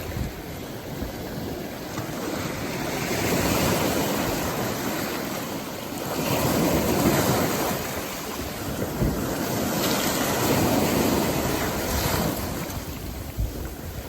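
Rough sea just after a typhoon: heavy surf surging and breaking in swells every three to four seconds. Wind buffets the microphone with a low rumble.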